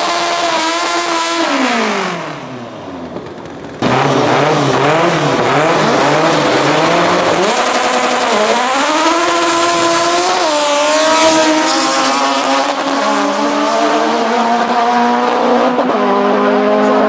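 Honda Civic's high-revving naturally aspirated 2.4-litre K24 four-cylinder on individual throttle bodies, running on a drag strip. In the first two seconds its pitch falls away. After an abrupt cut about four seconds in, the engine pulls hard through the gears, its pitch climbing and dipping at each upshift.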